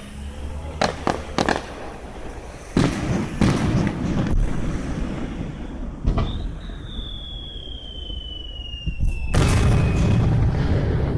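Aerial fireworks bursting: a few sharp cracks, then several heavy booms with a rumbling tail, the loudest near the end. Midway, a high whistle slides slowly down in pitch for about three seconds.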